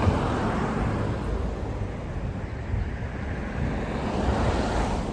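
Road traffic passing: a steady rumble with tyre and engine noise, swelling as one vehicle goes by just after the start and another near the end.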